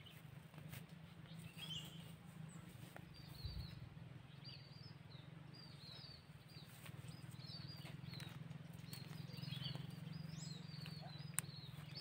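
Small bird calls: short, high chirps in quick little clusters, repeating every second or two, over a low steady hum. A single sharp click near the end.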